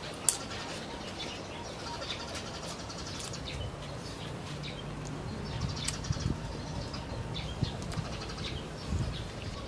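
Small birds chirping repeatedly in the background, with a sharp click a fraction of a second in. Soft chewing sounds of a person eating fruit come through in the second half.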